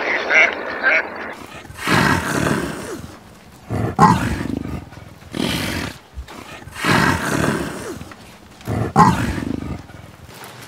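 A few duck quacks in the first second, then a big cat's rough, noisy calls: five of them, each about a second long, about a second and a half apart.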